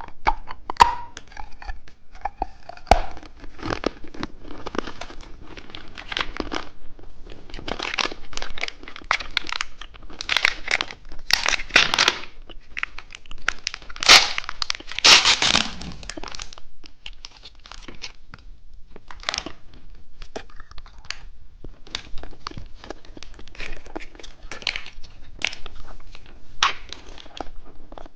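Plastic candy wrappers being torn open and crinkled by hand, an irregular run of rustling and crackling that is loudest about halfway through.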